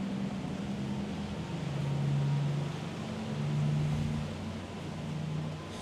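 A low engine hum that shifts in pitch a few times and swells twice, over a steady wash of outdoor noise.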